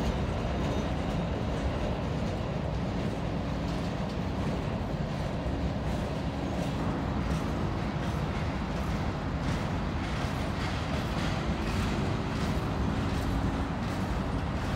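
Freight train cars rolling past: a steady rumble of steel wheels on rail, with repeated clicks of wheels over rail joints through the second half.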